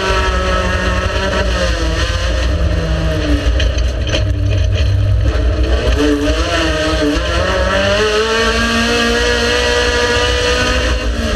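Race car engine running hard, its pitch rising under acceleration and dropping as the throttle lifts or a gear changes, then climbing again in a long rise.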